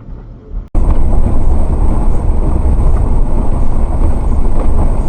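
Loud, steady rumble of a vehicle on the road, heard through a dashcam, starting abruptly about a second in, with a faint steady high whine above it.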